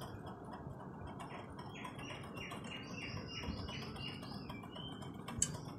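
A bird singing: a faint run of short, repeated chirping notes, about two or three a second, from a second and a half in until near the end. A short sharp click comes near the end.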